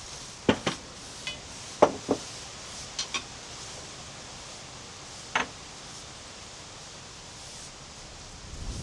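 A series of sharp knocks at irregular intervals, several of them in quick pairs, the last a little after five seconds in.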